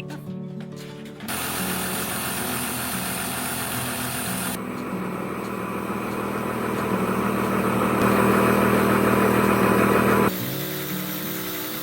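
Loud workshop machinery running with a steady low hum under a noisy rush, in edited stretches: the sound changes abruptly a few seconds in, grows loudest, then stops suddenly near the end. Background music is heard at the start and the end.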